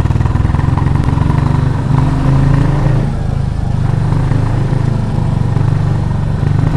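Royal Enfield Classic 350's single-cylinder engine running while the bike is ridden, a steady, fast low exhaust beat that dips slightly about three seconds in.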